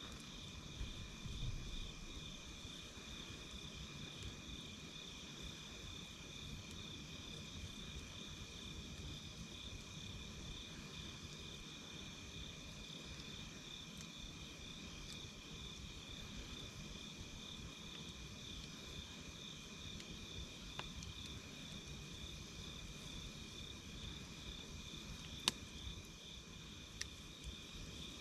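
Night insects calling in a steady chorus of fast-pulsing trills at two pitches. A wood campfire crackles with a few scattered sharp pops, the loudest about 25 seconds in.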